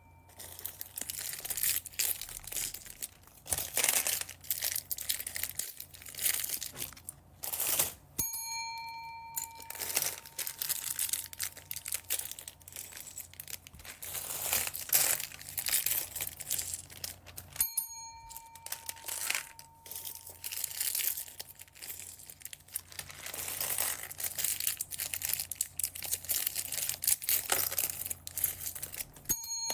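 Plastic bags of beads crinkling and rustling as they are handled, in uneven bursts. Twice, after a brief dropout, a short bell-like chime rings and fades over a second or two, about a third of the way in and again just past the middle.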